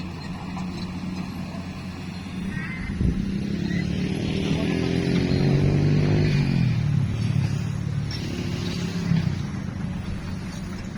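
An engine running steadily. It grows louder from about three seconds in, with its pitch shifting, and eases off again after about seven seconds.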